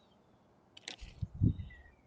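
A short scrape, then a run of low thumps and rustling close to the microphone, loudest about a second and a half in, with faint short bird chirps behind.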